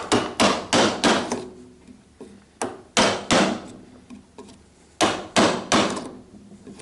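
Mallet driving a chisel into wood to chop out a mortise by hand. The blows come about three a second in three runs (five, then three, then five) with short pauses between.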